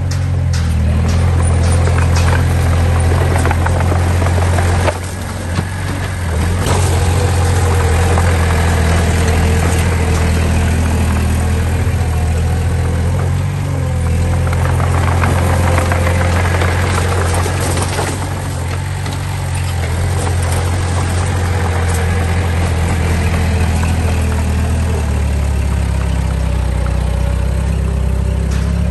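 Diesel engine of heavy earthmoving machinery running steadily at a low, even note, with occasional clanks and clatter over it.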